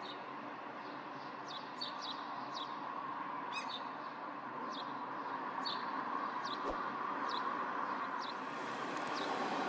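Short, high chirps of small birds, each falling quickly in pitch, repeated irregularly every half second or so, over a steady background of distant city noise.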